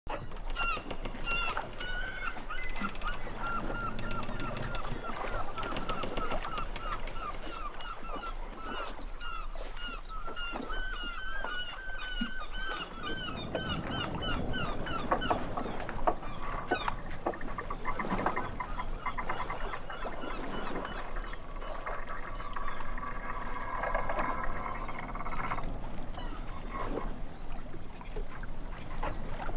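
A flock of birds calling in quick repeated calls, thick for the first half and then thinning out, with a steady tonal sound for a few seconds past the two-thirds mark.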